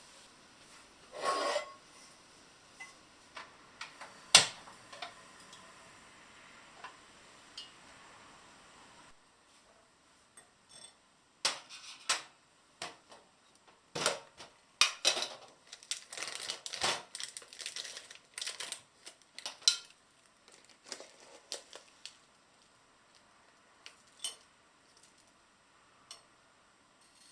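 Dishes and kitchen utensils being handled: a series of separate clinks and knocks, busiest from about eleven to twenty seconds in.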